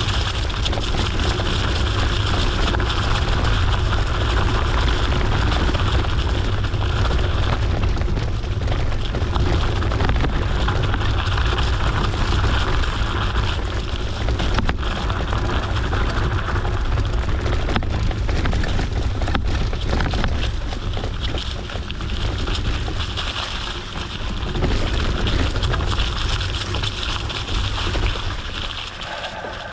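Wind buffeting the microphone, heard as a steady low rumble, over the noise of mountain-bike tyres rolling on an unpaved forest road, with a few faint knocks.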